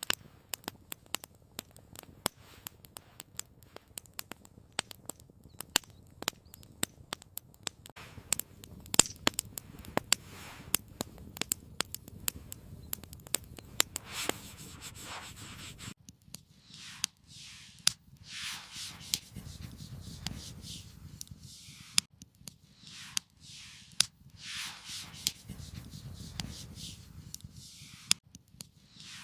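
Wood fire crackling with many irregular sharp pops and snaps. About halfway through this stops abruptly and gives way to a series of separate scraping, rustling strokes.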